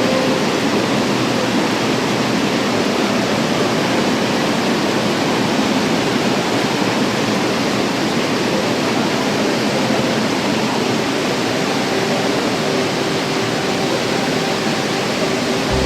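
Steady roar of rushing water from a mountain waterfall or stream, an even rush with no breaks.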